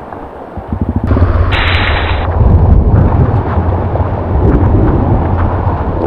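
Off-road motorbike engine revving hard, a loud pulsing rumble that starts suddenly under a second in, with a short hiss about a second and a half in.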